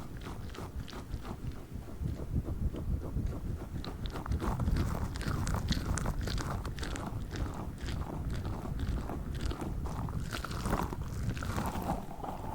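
Tiny spiky Orbeez squishy balls being squeezed and handled close to the microphone: a run of small irregular squelches and crackles over low handling rumble.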